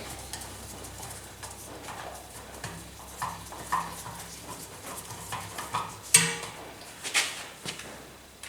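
Hand-tool work on an air compressor's electrical connection: scattered light clicks and knocks, with a sharper clink about six seconds in.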